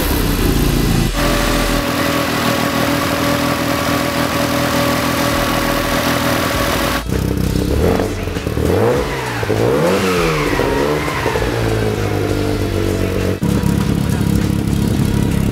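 Custom classic Mini's engine running through its twin-tailpipe exhaust: first a steady idle, then revved in several quick blips with the pitch rising and falling. Near the end it settles to a steady run.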